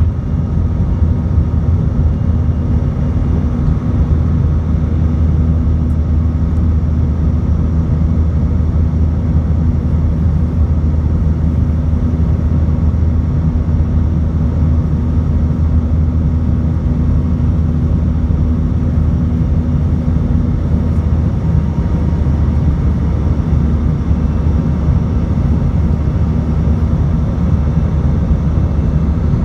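Airbus A319 cabin at the exit row over the wing: jet engine and airflow noise, a steady loud rumble with a low drone. One of the hum tones drops out about two-thirds of the way through.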